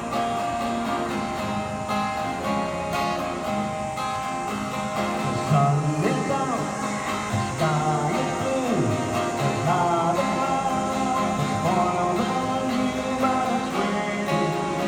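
Acoustic guitar music, strummed chords under a melody line of gliding, bending notes midway through.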